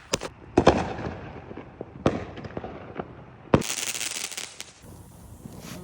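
Fireworks going off: four sharp bangs at uneven gaps, the last followed by a short hissing crackle.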